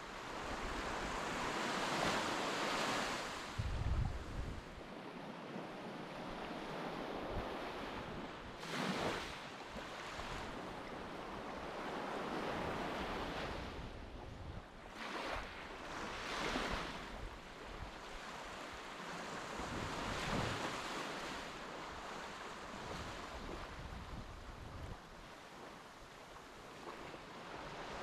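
Waves washing onto a beach, swelling and fading every few seconds, with a gust of wind buffeting the microphone about four seconds in.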